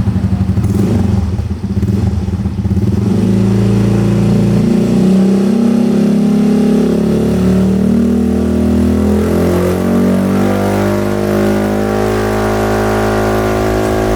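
Yamaha QBIX scooter's single-cylinder engine running through a Yoshimura Tri-Cone carbon full-system exhaust: a pulsing idle for the first few seconds, then the revs come up and climb slowly, held at a steady raised speed.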